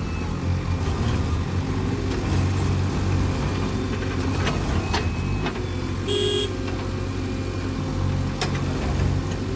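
Heavy diesel engine running steadily under load, from the tractor or the JCB working to free it from mud. About six seconds in, a brief high-pitched tone sounds over it.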